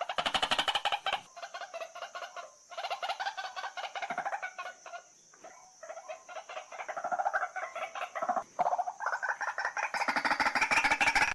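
White-breasted waterhen calling in rapid trains of harsh, croaking pulses, broken by short pauses and loudest near the end, then cut off abruptly. This is a calling recording of the kind played as a lure for the birds.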